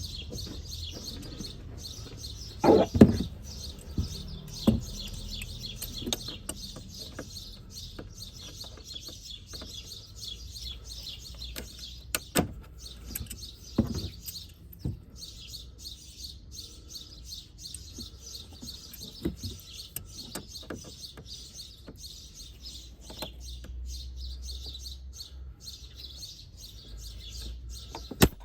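Small birds chirping continuously in the background, with a few sharp knocks and clicks of hand tools, the loudest about three seconds in, as work goes on at a radiator hose clamp with pliers.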